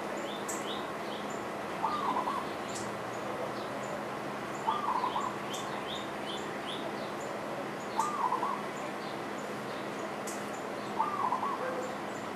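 Birds calling: one short warbled phrase repeated four times, about every three seconds, with fainter high chirps in between, over a steady background hiss.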